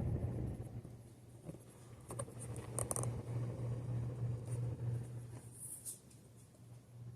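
Hunter 2nd Century Original ceiling fan's oil-bath motor running on high speed: a steady low hum that swells and fades slightly, with a few faint clicks and rustles.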